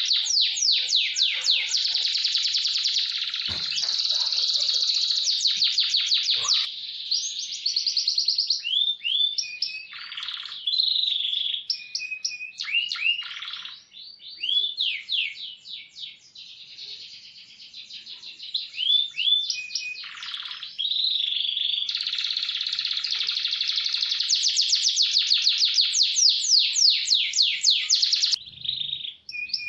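Canary singing a long song of fast rolls, rapid trills of repeated notes, broken in the middle by short runs of falling whistled notes before it rolls fast again near the end.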